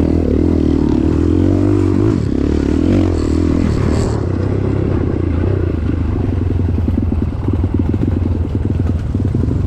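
Off-road pickup truck engine working on a trail, its speed rising and falling for the first few seconds, then settling into a steady, rapid chugging.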